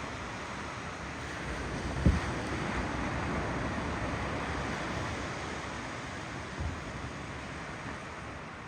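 Ocean waves rolling and washing in, a wave swelling a couple of seconds in, with wind buffeting the microphone and one sharp low thump about two seconds in.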